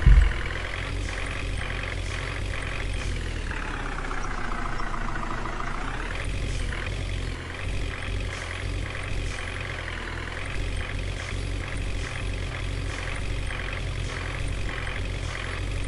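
Tractor engine running steadily. Its pitch sags for about two seconds, starting around four seconds in, then picks back up.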